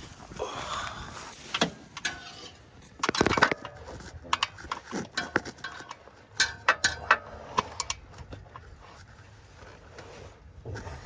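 A run of sharp clicks and knocks with a louder scrape about three seconds in, from tools and car ramps being handled during the oil change.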